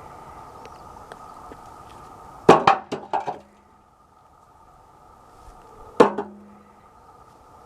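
Rocks tossed into a steel tractor loader bucket: a quick run of several clattering hits about two and a half seconds in, then a single clank about six seconds in. The bucket rings briefly after each, over a faint steady hum.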